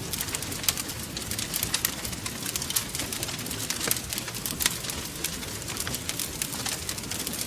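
Wood fire crackling: frequent sharp snaps and pops over a continuous low rumble of burning.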